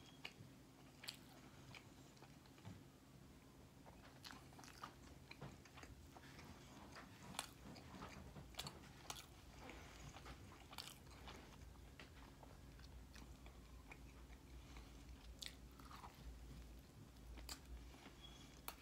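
A man chewing a mouthful of McDonald's Filet-O-Fish sandwich with his mouth closed, close to the microphone. Quiet, irregular wet mouth clicks and smacks sound over a low steady hum.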